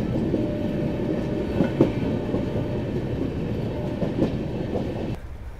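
Gatimaan Express coach running slowly through a station, heard at its open door: a steady rumble of wheels on rails with a few sharper knocks over rail joints and points. The sound drops away abruptly about five seconds in.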